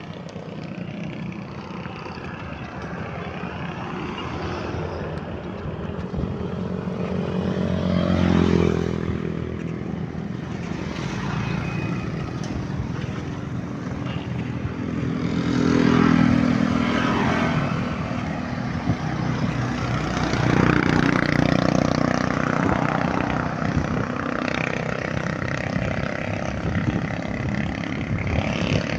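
Road traffic seen from a bicycle: motor vehicles passing several times, their engine notes swelling and sliding in pitch as they go by, over a steady rush of wind and road noise.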